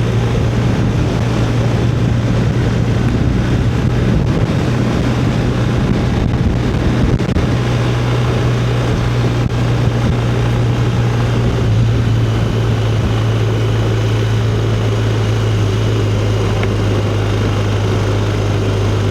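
Motorcycle engine running at a steady cruising speed, a constant low drone under a rush of wind and road noise. The engine note shifts slightly about twelve seconds in.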